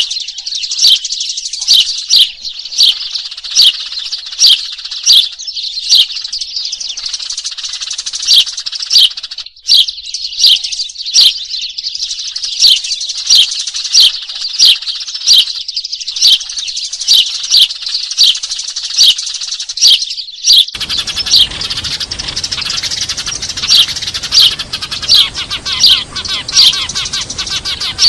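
Eurasian tree sparrows chattering in a busy, noisy flock: loud, sharp falling chirps about twice a second over dense twittering, a sparrow lure call. About three-quarters of the way through, a steady background hiss comes in under the chirping.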